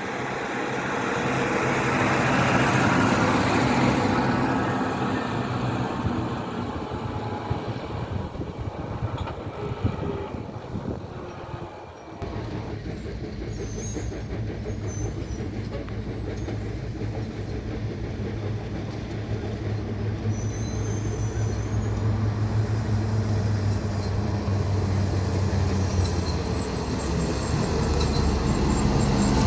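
Road vehicle engine and tyre noise, running steadily, with a louder swell of traffic noise a few seconds in and a brief dip about twelve seconds in.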